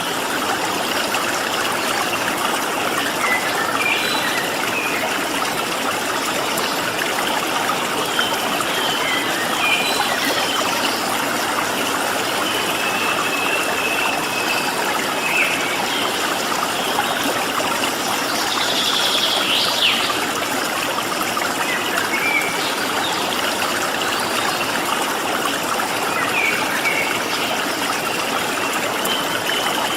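Flowing stream water running steadily, with faint, scattered chirps and short whistles from small birds.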